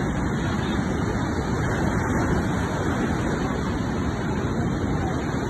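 Floodwater rushing down a wadi: a steady, unbroken rushing noise, heaviest in the low range.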